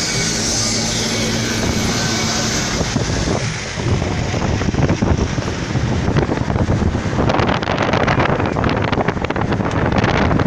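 Wind rumbling and buffeting on the microphone, getting rougher after about seven seconds. A steady low hum runs under the first three seconds or so.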